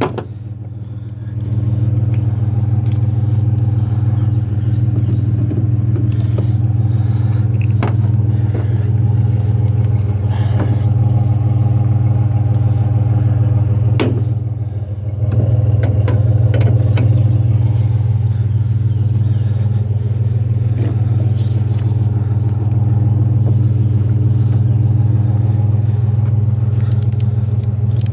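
A vehicle engine runs steadily throughout, dipping briefly near the start and about halfway through. Scattered light clicks and knocks sit on top.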